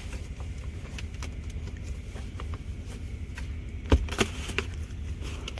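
Steady low hum inside an SUV's cabin, with scattered small clicks and a sharp knock about four seconds in, from handling the rear-seat fittings.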